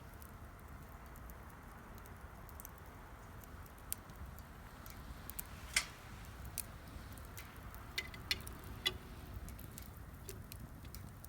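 Wood fire burning in a Solo Stove Campfire, crackling with scattered sharp pops over a steady low rumble, the loudest pops about six and nine seconds in.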